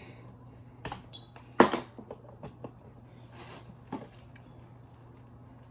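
A few sharp knocks and clicks of handling as a flat iron is plugged in, the loudest about one and a half seconds in, with a short rustle around three and a half seconds.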